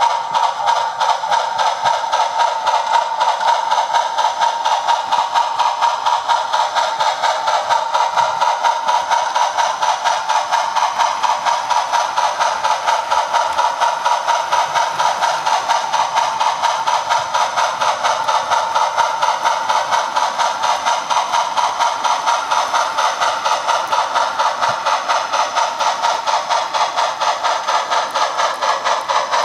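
OO gauge model train running round the track, heard from a camera riding on one of its wagons: a steady whine with a fast, even clicking of the wheels, a few clicks a second.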